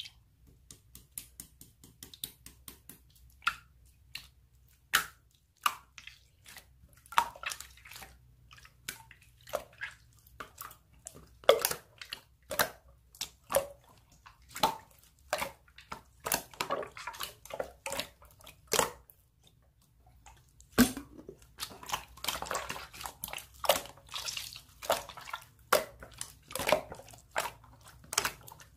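Slime being handled and pressed: irregular wet, sticky clicks and pops, a few a second, getting denser and busier about two-thirds of the way through.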